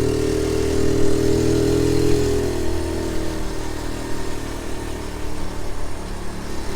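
Honda Z50J1 Monkey's 49 cc single-cylinder four-stroke engine running as the bike is ridden, its note dropping and getting a little quieter after about two and a half seconds.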